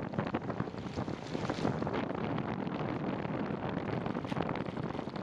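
Wind buffeting the microphone of a moving bicycle, over a steady hiss of tyres rolling on a wet trail.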